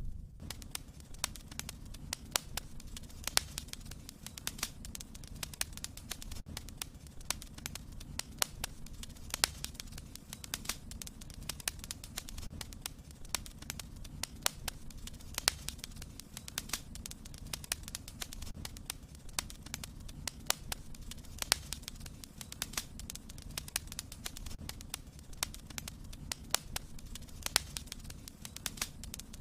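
Wood fire burning in a fireplace: irregular sharp crackles and pops several times a second over a steady low rumble of the flames.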